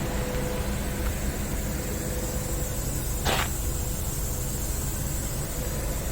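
Scania R650's V8 diesel engine idling steadily, with a brief noisy burst about three seconds in.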